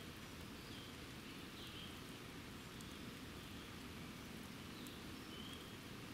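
Steady rain falling during a thunderstorm, with a few short high chirps now and then.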